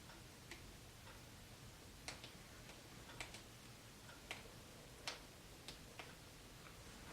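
Near silence with faint, sharp little clicks and taps at irregular intervals, about nine of them, over a low room hum.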